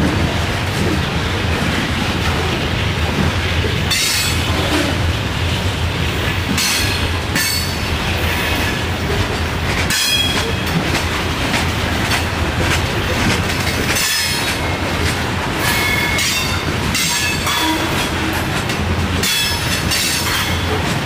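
Loaded coal hopper cars of a freight train rolling by: a steady low rumble of steel wheels on the rails, with high-pitched wheel squeals every few seconds.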